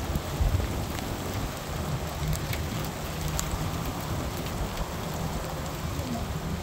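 Steady rain falling, with individual drops ticking close by and a low rumble underneath.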